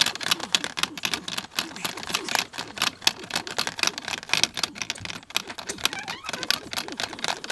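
American Bully dog licking and smacking its mouth, giving a fast, irregular run of wet clicks.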